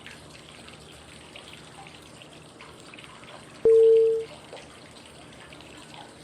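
Steady flowing-water white noise with small trickling drips. About three and a half seconds in, a single short, low steady beep sounds, the cue tone that paces the breathing phases.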